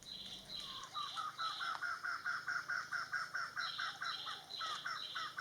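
Several birds calling together: a fast, even series of short notes, about five a second, with higher-pitched calls over it.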